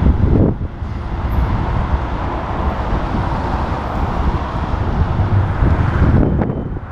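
Wind buffeting the microphone of a moving bicycle, mixed with steady road traffic noise from passing cars.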